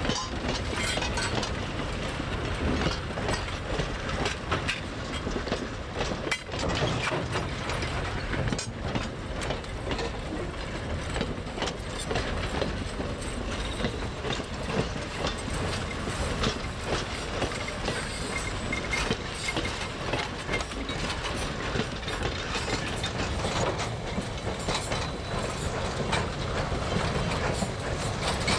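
A train rolling along the track: a steady clatter of wheels on rails, with many small clicks and knocks from the wheels and couplings.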